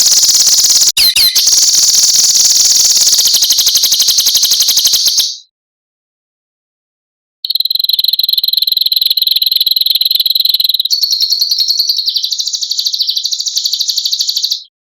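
Songbird's harsh, rasping buzz calls ('besetan') from a bird-mastering recording. There are two long, rapidly pulsed bouts, the first ending about five seconds in and the second starting after a two-second gap.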